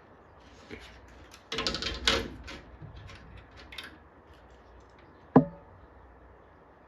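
Tools and a circuit board handled on a workbench: a brief clatter of light knocks and scrapes, a few scattered clicks, then one sharp knock with a short ring about five seconds in.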